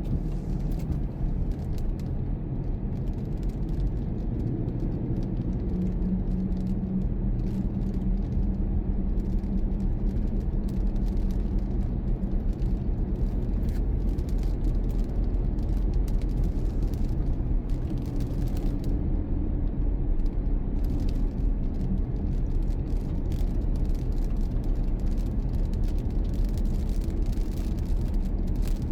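A car driving, with steady low engine and road rumble and occasional faint clicks.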